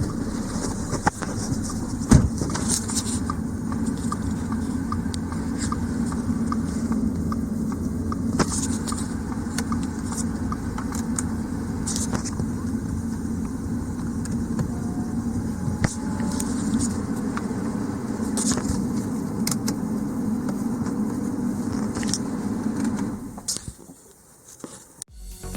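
Audi A5 2.0 TFSI (CDNC) turbocharged four-cylinder engine idling steadily with a light ticking, then switched off near the end.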